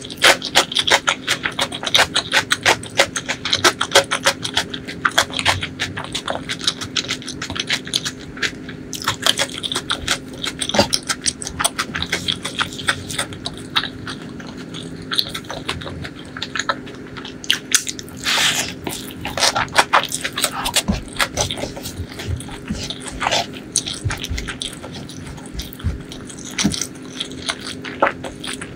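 Close-miked chewing and wet mouth clicks of someone eating butter chicken and spiced rice, with fingers scraping rice up off a wooden board.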